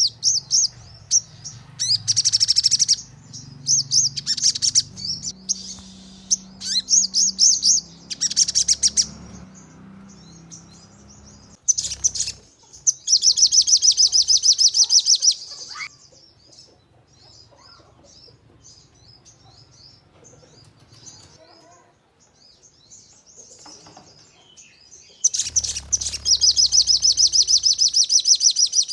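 Sogon bird singing in loud bursts of very fast, high-pitched repeated notes, the rapid-fire 'nembak' song, with softer scattered chirps between bursts. The long bursts come about thirteen seconds in and again from about twenty-five seconds on.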